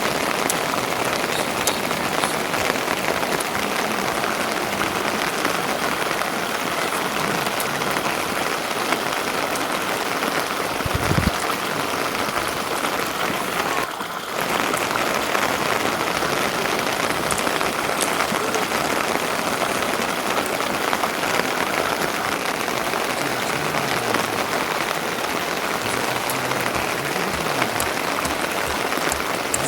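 Steady, heavy rain falling, with a short low thud about eleven seconds in.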